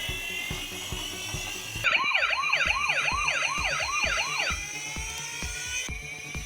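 Electronic siren yelping in fast rising-and-falling sweeps, about three a second, for under three seconds, over background music with a steady beat.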